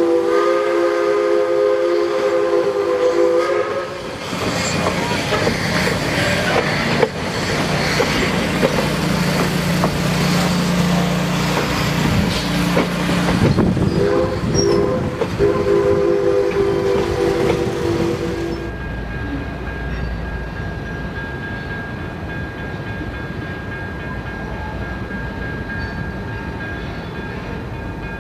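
Passenger coaches and a caboose of a steam-hauled train rolling past with steady wheel noise and clatter, while the locomotive's chime whistle sounds a long chord twice: at the start and again about 14 seconds in. About 18 seconds in, the sound cuts off abruptly to a quieter steady background.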